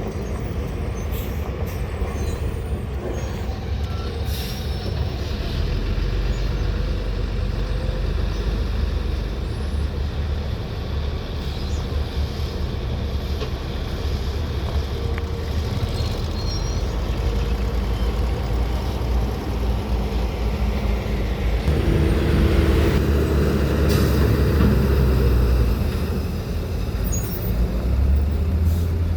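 Heavy dump truck diesel engines running, a steady low rumble that grows louder for a few seconds about three-quarters of the way through.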